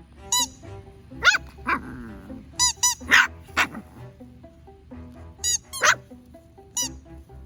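A puppy barking in short, high-pitched yaps, about nine of them in three quick clusters, over background music.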